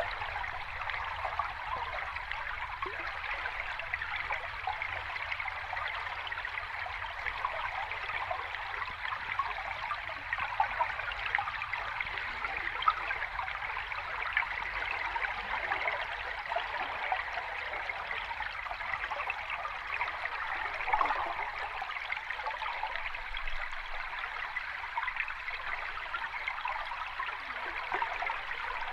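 Sea water washing and fizzing steadily at the shore, an even rush with fine crackles and no separate wave crashes.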